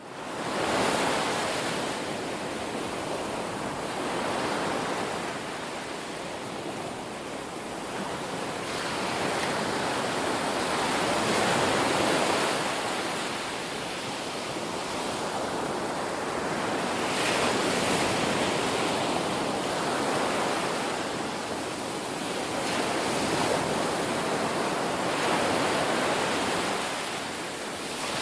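Ocean surf: waves washing onto a beach, the rush swelling and falling back every few seconds.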